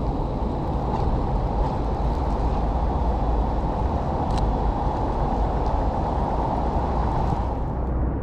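Heavy rain pouring, heard as a steady rumbling hiss with a strong low rumble and a few faint clicks, the higher hiss thinning near the end.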